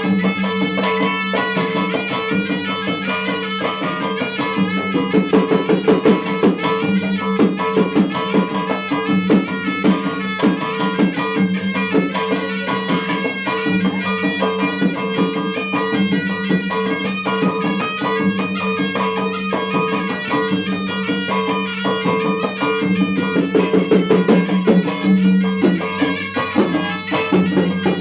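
Traditional Bugis gendang drums beaten in fast, dense strokes, with a reedy wind instrument playing a melody over them.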